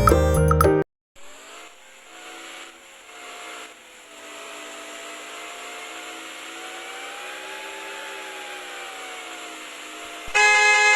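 Vehicle engine sound effect running steadily, its pitch rising gently and settling back, then a loud car horn honk near the end. Cheerful mallet-percussion music plays briefly at the start.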